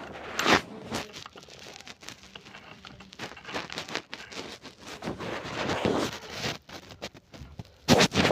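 Irregular rustling and crinkling with scattered sharp knocks and clicks, like something being handled, loudest in a cluster near the end.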